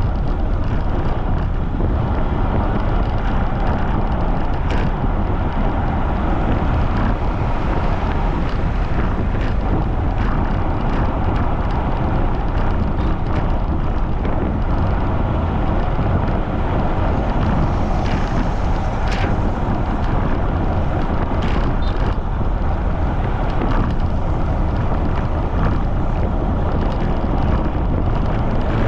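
Strong wind buffeting the microphone of a camera on a bicycle riding at speed: a loud, steady, low rumble of wind noise with a few faint ticks.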